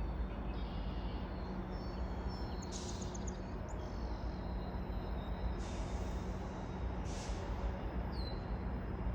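Steady low rumble and hum of a GO Transit train at the station, with a few bird chirps and two short hisses partway through.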